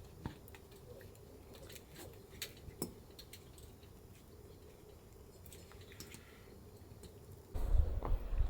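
Scattered faint clicks and ticks, then about seven and a half seconds in a sudden loud low rumble of wind buffeting the microphone.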